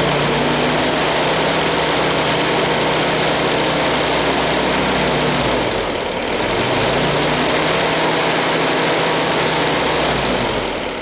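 1953 Willys CJ3A's 134 cubic inch L-head four-cylinder engine idling cold and steadily, with a light rattle from the loose manifold heat control valve. A little past halfway its speed sags briefly and recovers.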